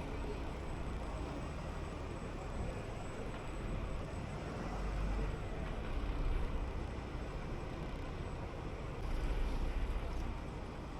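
City bus under way: steady low engine rumble and road noise, swelling a little twice.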